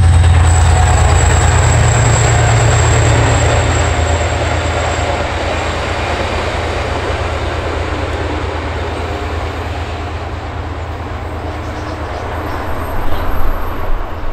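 Train running on the rails, a loud low rumble that fades over the first few seconds while the overall noise slowly dies away, with a brief louder patch near the end.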